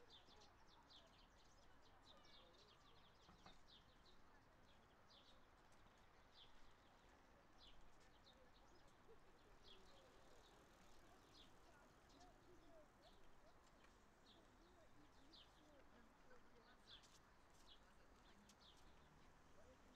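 Faint outdoor ambience: small birds chirping in short, repeated calls throughout, over a low background hiss with faint distant voices.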